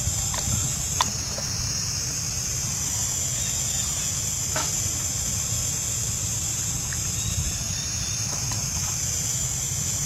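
Insects buzzing steadily and high-pitched over a low rumble, with a few faint clicks.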